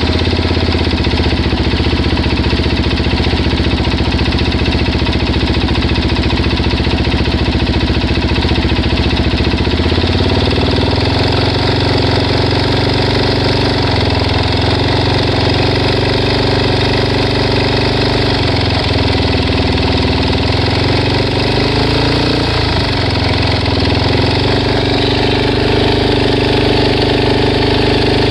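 Suzuki DR-Z400S single-cylinder four-stroke engine running at idle with a ticking the owner likens to a heart ticking, with small shifts in engine speed. The tick persists after a new cam chain and both cam chain guides, and its cause is unknown.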